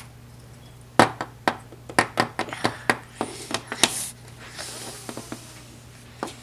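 A rapid run of sharp clicks and knocks of plastic toy pieces being handled and knocked together, starting about a second in, followed by a brief rustle and a few last clicks.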